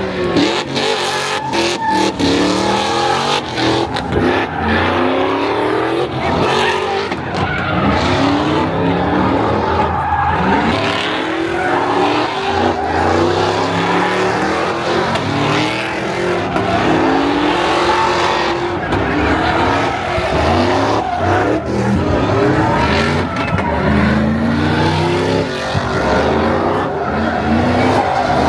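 Car engines revving over and over, rising and falling in pitch, with tyres squealing as the wheels spin.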